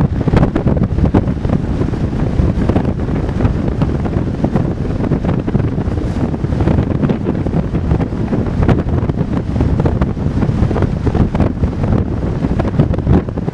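Strong wind buffeting the microphone: a loud, constant low rumble with rapid gusty flutter.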